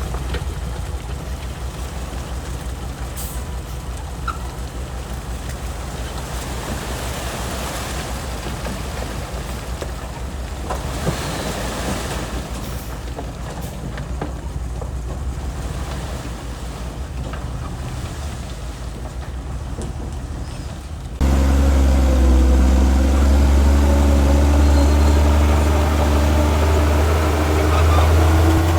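Heavy diesel construction machinery running with a low, fast-pulsing rumble; about two-thirds of the way through the sound switches abruptly to a louder, deeper and steadier engine drone.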